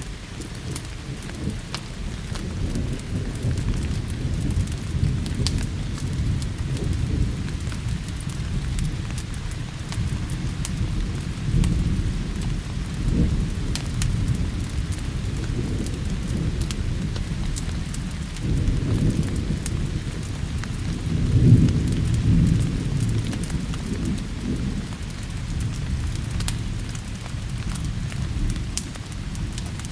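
Rain falling with thunder rumbling throughout, the rumble swelling to its loudest about two-thirds of the way through, and scattered small crackles and pops from a wood fire over it.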